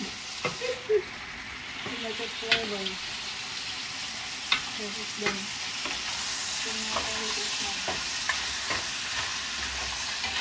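Lobster pieces sizzling in butter in a hot frying pan, stirred and tossed with a wooden spatula that knocks and scrapes now and then.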